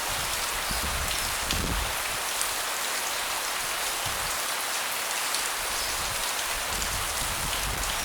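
Steady rain falling, with many individual drops ticking close by and a few soft low thuds.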